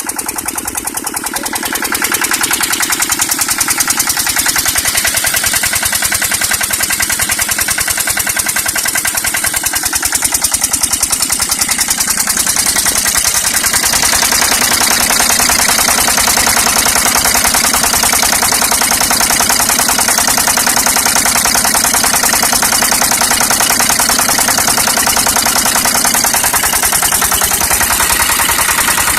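Kirloskar 10 hp single-cylinder diesel engine running steadily with an even, rapid beat of firing strokes, getting louder about two seconds in.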